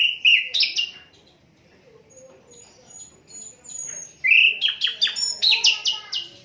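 Sikatan londo flycatcher singing: a quick run of sharp chirping notes at the start, a brief lull with faint high thin notes, then a second rapid chirping phrase about four seconds in.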